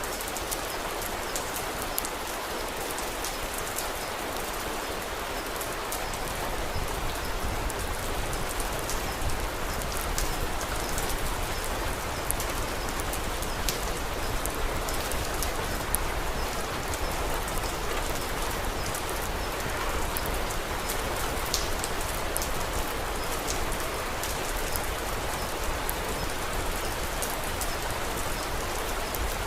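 Steady rain falling, mixed with scattered sharp crackles from a wood fire. A low rumble joins about six seconds in, and the sound grows slightly louder.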